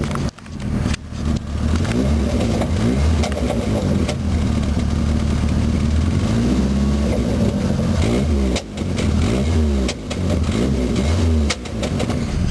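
Ford Mustang's 2.3-litre four-cylinder running loud through a new homemade exhaust, its pitch rising and falling again and again as the engine is revved or driven.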